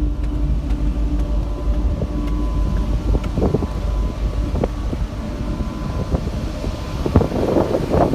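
BC ferry's engines and machinery running with a steady low rumble and hum as the ship gets under way, with a louder, rougher patch of noise about seven seconds in.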